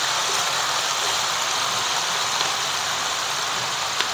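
Chicken and vegetables frying in oil in a wok, a steady sizzle, with a faint click near the end.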